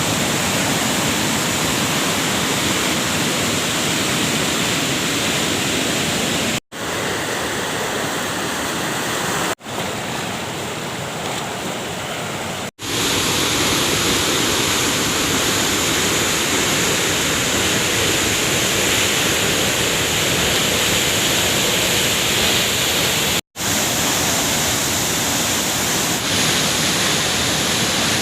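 Waterfall: a steady, loud rush of falling water. It cuts out for an instant four times, and is a little quieter between the second and third breaks.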